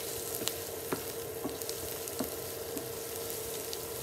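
Diced onion sizzling in oil in a nonstick frying pan while a wooden spatula stirs it: a steady sizzle with scattered small clicks and taps. The onion is being sautéed until slightly golden. A faint steady hum runs underneath.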